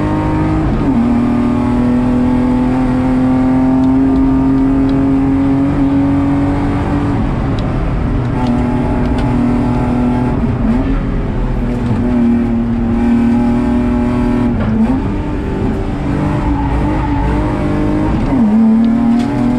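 BMW E36 328's naturally aspirated M52B28 2.8-litre straight-six running hard at high revs, heard from inside the stripped race car's cabin. Its pitch drops sharply about a second in, then dips and climbs again several more times as the car is driven flat out.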